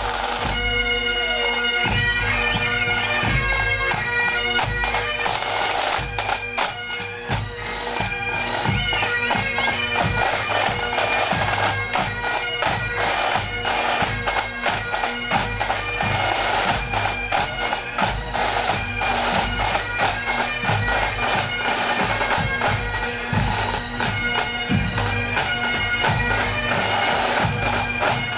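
Massed pipe bands playing a march: bagpipe chanters carry the tune over the steady hum of the drones, with drums beating the rhythm.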